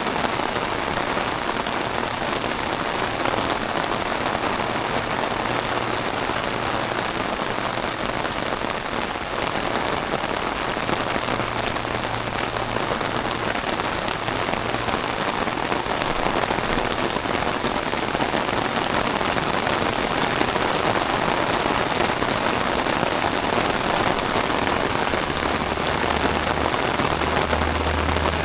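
Heavy rain pouring down steadily, a dense, even hiss of drops on the ground and surfaces.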